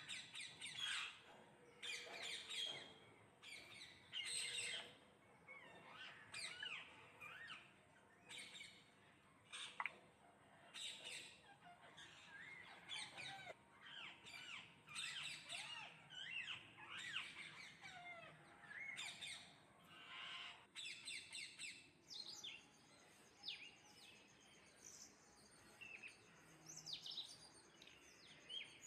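A flock of parrots calling in repeated bursts of rapid, shrill chirps and squawks. Past the middle the calls thin out to sparser, higher chirps.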